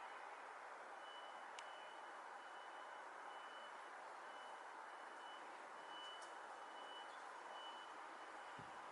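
Faint high-pitched beeping, a single steady tone repeating in short pulses of uneven length, over a steady hiss; a couple of faint clicks.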